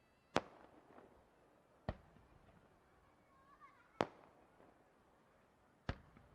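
Aerial fireworks bursting: four sharp bangs roughly every two seconds, each followed by a short echoing tail.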